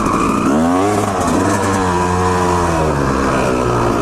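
Two-stroke dirt bike engine running under the rider, its pitch shifting about half a second in and then holding steady. The bike is taken for a Honda CR250R.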